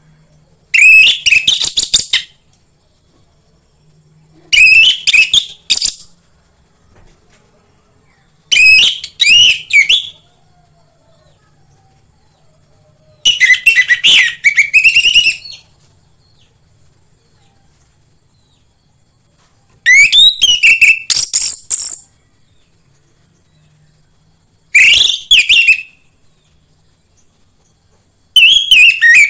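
Orange-headed thrush (anis merah) singing: short, loud whistled phrases of one to two seconds, seven of them, each a few seconds after the last. A faint steady high-pitched hiss runs underneath between the phrases.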